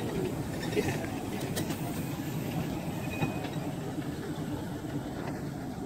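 Narrow-gauge train rolling slowly into the platform, wheels clicking and rumbling over the rails, with a few short squeaks early on from the wheels.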